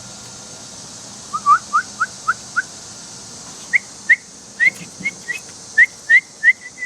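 A person whistling a series of short rising chirps, imitating a bird to coax a baby bird into opening its mouth for food. About a second in come five lower chirps, then after a short pause about ten higher ones.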